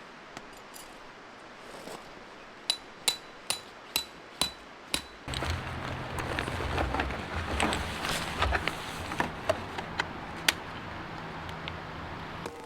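Six sharp metallic strikes with a ringing tone, about two to three a second. About five seconds in they give way to a steady low hum with scattered clicks and clatter.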